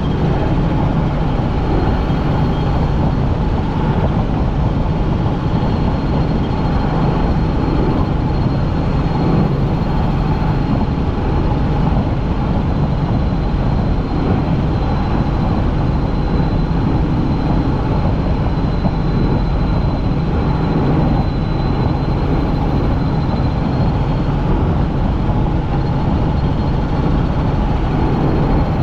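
Helicopter in cruising flight heard from inside the cabin: a loud, steady rotor and engine drone with a thin, high whine running over it.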